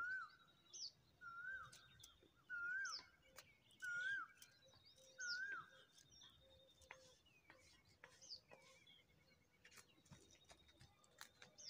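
Birds calling: a short whistled call repeats about every second and a quarter, six times, then stops about halfway through. Fainter high chirps go on throughout.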